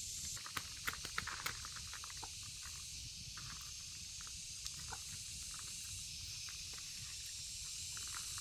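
Steady high hiss of outdoor ambience, with a quick run of light clicks and taps in the first second and a half and a few more scattered later.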